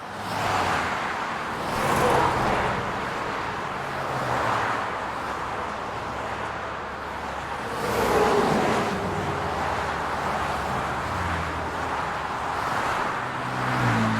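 City street traffic: a steady hum of car engines with vehicles passing one after another, the sound swelling with each pass. The loudest pass comes about eight seconds in, its pitch dropping as it goes by.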